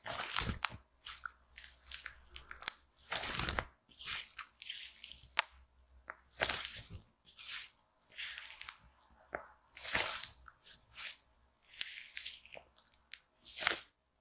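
Slime being squeezed and pressed close to the microphone: irregular wet squishes and crackles, with a few sharp pops.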